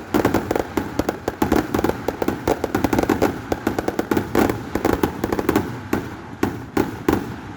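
Aerial fireworks going off in rapid succession: a dense run of sharp bangs and crackles, several a second, thinning a little near the end.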